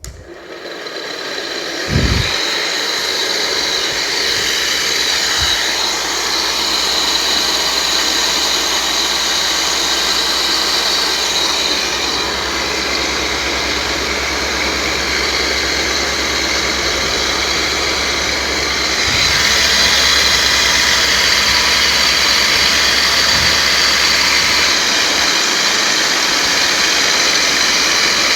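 Motor of a small homemade model Concorde plane, running at speed with a steady high hum. It starts suddenly, gives a thump about two seconds in, and gets louder about nineteen seconds in.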